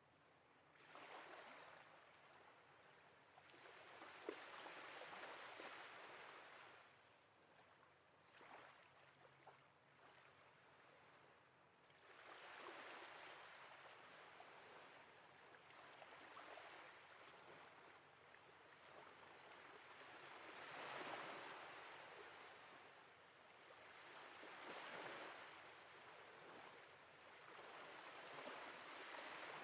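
Faint sea waves washing ashore, each swell rising and falling away every few seconds.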